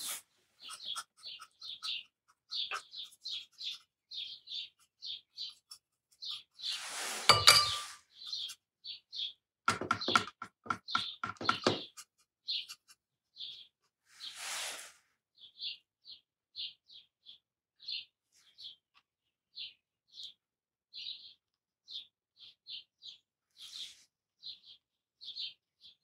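A bird chirping over and over in short, high notes, a couple a second with uneven gaps. Mixed in are a knock about seven seconds in, a cluster of clicks a few seconds later, and a brief rustle near the middle.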